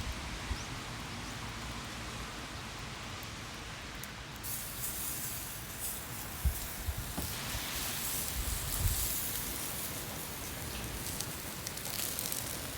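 Fire crackling with a steady hiss and scattered pops, growing busier about four seconds in, with a couple of dull knocks near the middle.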